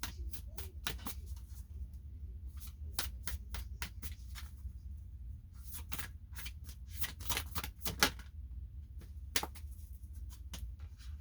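A deck of reading cards being shuffled by hand: a long run of soft, irregular clicks and riffles, with one sharper snap about eight seconds in.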